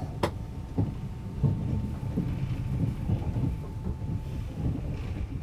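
Passenger train running, heard from on board: a steady low rumble with irregular knocks of the wheels over rail joints, and one sharp click just after the start.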